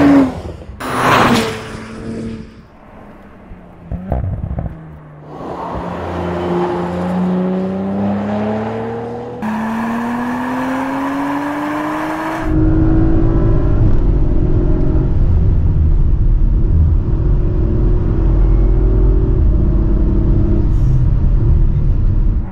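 Audi RS4 Avant's twin-turbo V6 passing by fast, then accelerating hard with its pitch rising through the gears. From about halfway it runs at speed under heavy low wind rumble from a car-mounted microphone.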